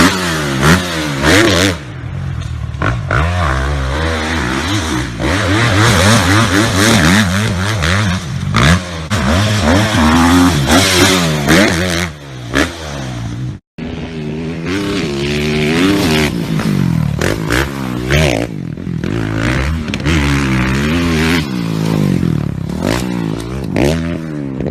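Motocross motorcycle engine revving up and down over and over as it is ridden, the pitch rising and falling with each burst of throttle, over a rough rattling noise. The sound cuts out for an instant about halfway through.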